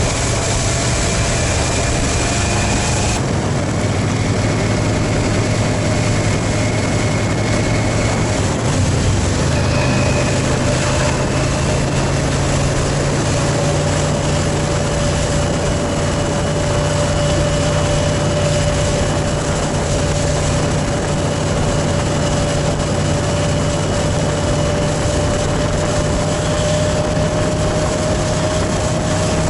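Yamaha motorcycle engine running steadily under way, its note holding nearly level with a slow drift in pitch, under a constant rushing hiss. The hiss grows duller abruptly about three seconds in.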